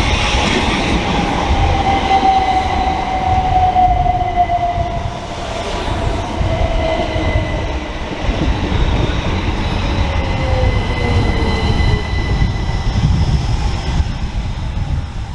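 Electric multiple-unit train running through the station, its motor whine falling slowly in pitch as it slows, over a steady rumble of wheels on the track.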